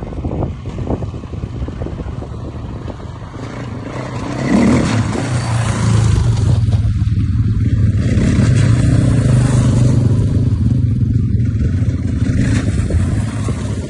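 A motor vehicle's engine running steadily with wind and road noise, growing louder about four to five seconds in.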